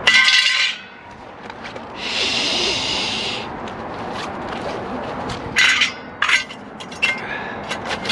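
A piece of scrap aluminum being handled: metal scraping and clinking, with a loud rasp at the start, a longer scrape with a ringing edge, and two sharp knocks later on.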